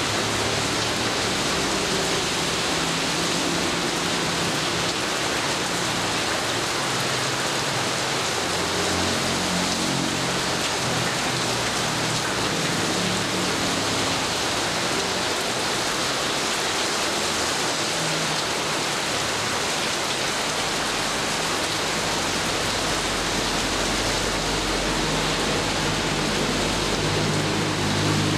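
Steady heavy rain falling and pattering on surfaces, an even hiss, with a low rumble coming and going underneath.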